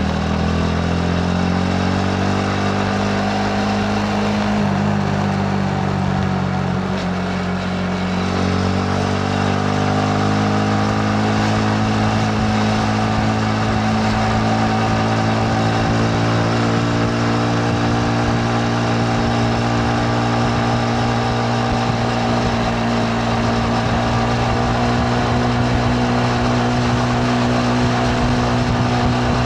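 Yamaha MT-15's single-cylinder engine under way on the road. Its pitch dips around five to eight seconds in, then climbs and holds nearly steady as the bike pulls along at an even speed.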